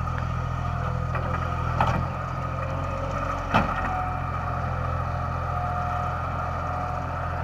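A steady engine hum, with two short knocks, about two seconds and three and a half seconds in.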